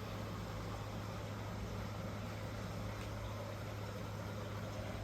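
Steady low hum under an even hiss, with no distinct knocks or clicks.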